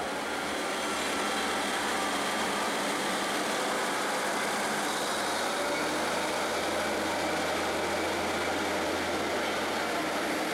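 Steady running noise of a diesel multiple unit train alongside the platform, with a low steady hum joining about halfway through.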